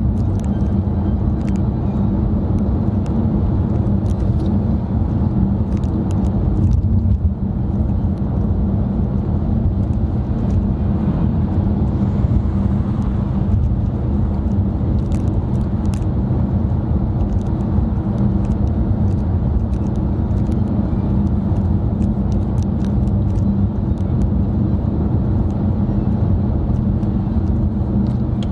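Steady road and engine noise inside a moving car's cabin: a continuous low rumble with scattered faint ticks.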